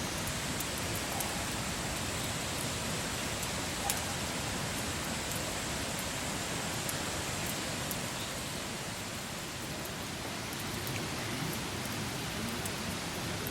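Wood campfire burning: a steady hiss with scattered small crackles and one sharper pop about four seconds in.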